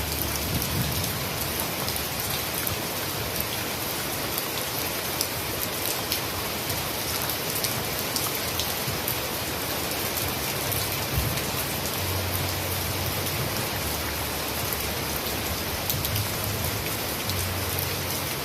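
Steady heavy rain falling: an even hiss with many sharp drop ticks scattered through it.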